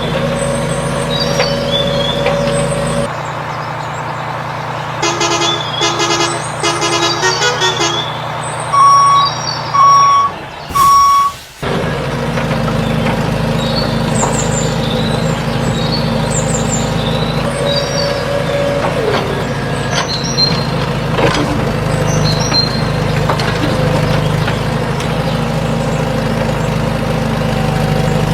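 A vehicle engine running steadily, with a burst of rapid ticking and then three short, evenly spaced electronic beeps partway through; the sound changes abruptly about twelve seconds in and the engine carries on.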